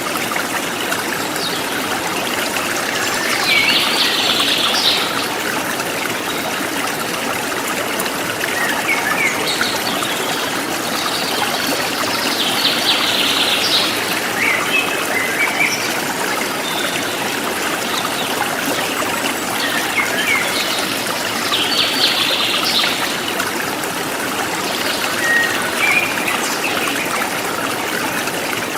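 Forest stream flowing steadily over stones, with birds chirping in short bursts of rapid high notes about every nine seconds and a few single calls between.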